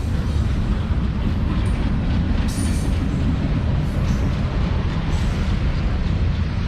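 Freight train cars rolling past close by: a steady, loud low rumble of wheels on rail with a few faint clanks.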